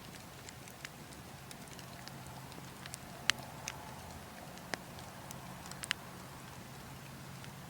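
Wood fire crackling, with scattered sharp pops, the loudest a little past three seconds in and just before six seconds, over a steady low rumble of wind.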